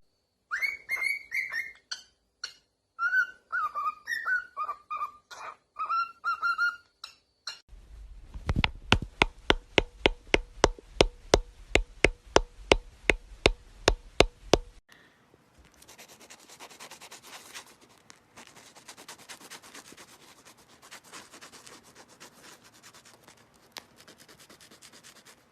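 A parrot whistling a run of short, pitched notes for several seconds. It is followed by sharp, even tapping about three times a second for some seven seconds, then faint rustling.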